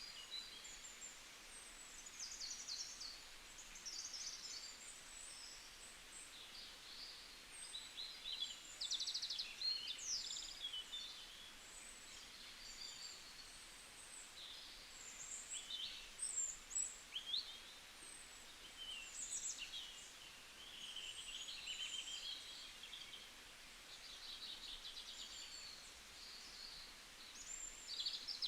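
Several small birds chirping and trilling, short high-pitched calls overlapping one another throughout, over a faint steady background hiss.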